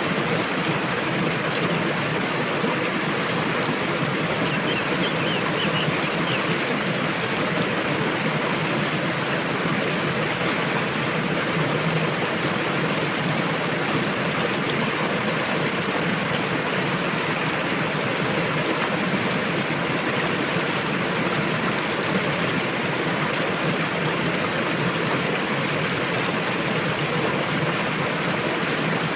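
A river rushing over rocks, a steady, even flow of water noise. A brief faint high chirp comes about five seconds in.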